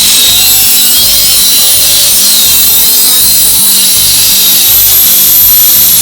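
Electric angle grinder running against metal, its high whine dropping in pitch about a second in as it is loaded, then climbing back near the end.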